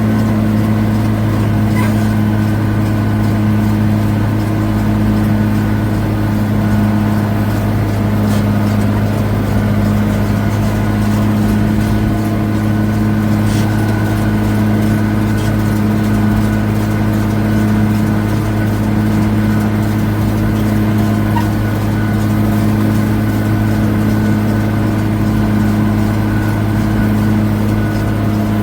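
1979 White 2-135 tractor's Perkins V8 diesel engine running at a steady, constant speed, working while pulling a round baler.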